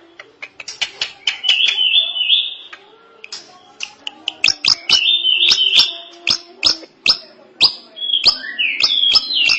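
Drongo singing: sharp clicking notes in quick runs, mixed with held whistled phrases that step in pitch, and a falling phrase near the end.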